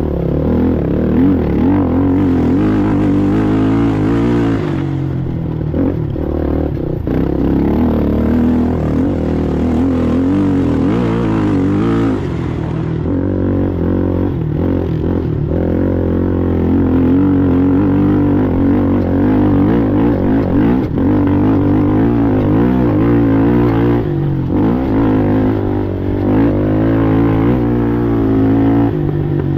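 Racing ATV engine running hard, its pitch rising and falling as the throttle is worked. A rushing hiss joins in twice during the first half.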